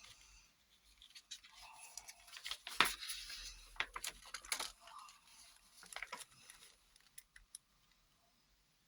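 Packaging and stencil sheets from a children's airbrush kit being handled: light rustling with scattered clicks and taps, the sharpest about three seconds in, settling almost to silence near the end.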